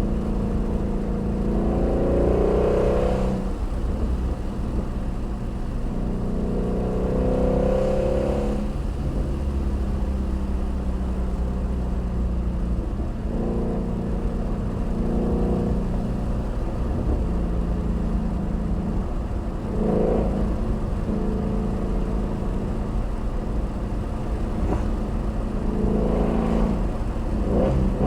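Ford Shelby GT350R's 5.2-litre flat-plane-crank V8 running under way, holding a steady drone with several short rising revs, about two, eight, twenty and twenty-seven seconds in.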